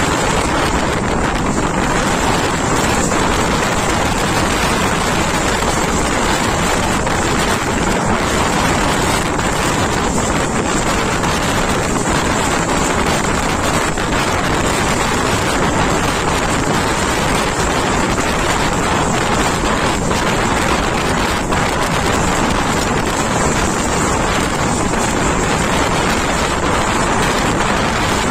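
Steady loud rush of an Indian Railways passenger train running at speed, heard from an open coach door: wind buffeting the microphone mixed with the rumble of wheels on the rails, with a few faint clicks.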